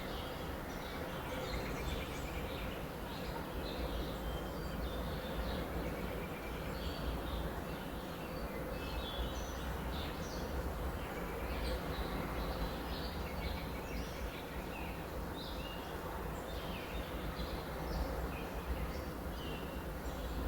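Many small birds chirping and twittering in short high calls throughout, over a steady low background rumble.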